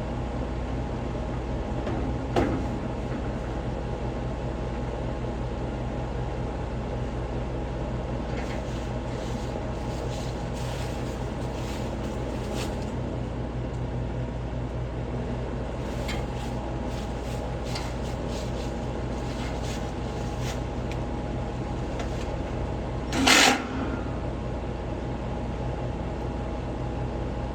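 Steady mechanical hum holding several low tones, with scattered light clicks and taps and one louder knock about 23 seconds in.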